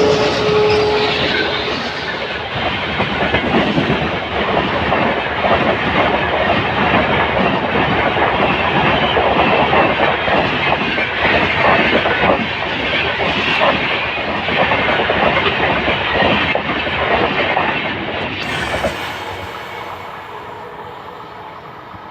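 Express passenger train hauled by two diesel locomotives passing at full speed. The end of its horn drops in pitch in the first second. Then wheels clatter steadily over the rail joints as the coaches rush by, fading away over the last few seconds.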